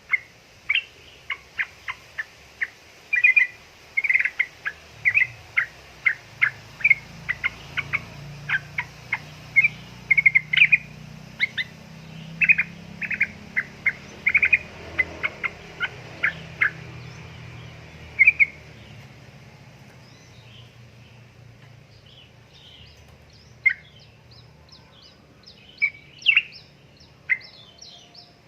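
Yellow-vented bulbul (trucukan) calling in a fast run of short, sharp chirps that thins out after about 18 seconds, with fainter higher chirps from other small birds near the end.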